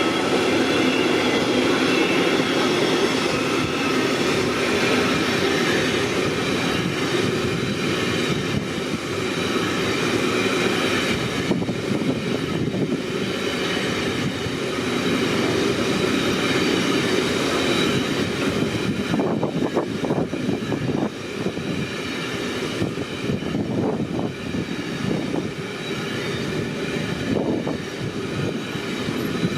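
Intermodal freight train hauled by a BLS class 186 electric locomotive rolling past: a steady rumble of wagon wheels on the rails with thin high ringing tones. From about two-thirds of the way in there are irregular knocks as the wheels cross rail joints.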